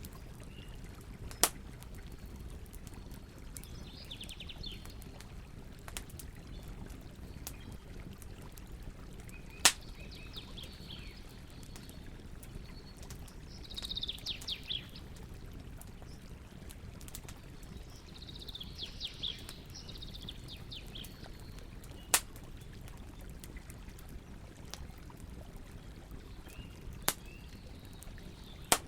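Campfire crackling with about six sharp, widely spaced pops over a steady low rumble. A songbird trills briefly four times in the background.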